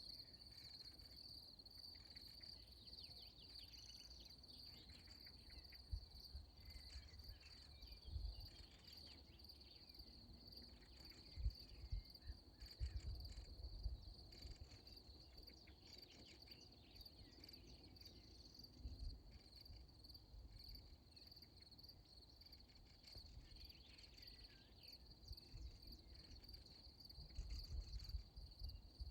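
Faint, steady high-pitched insect chirring, typical of crickets in a meadow, with scattered short chirps over it and occasional low rumbles.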